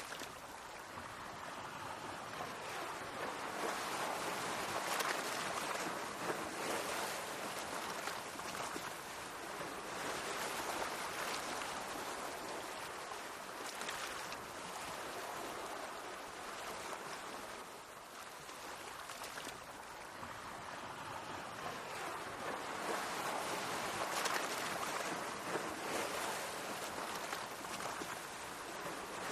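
Mediterranean sea waves washing in, a continuous rushing of water that swells and eases in slow surges, with a quieter lull about two-thirds of the way through.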